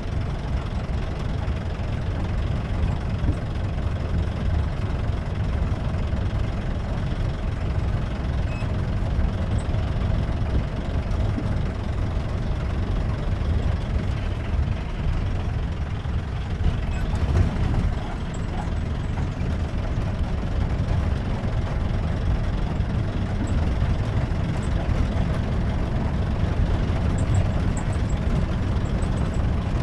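Jeep engine running steadily under way, a continuous low rumble with road noise.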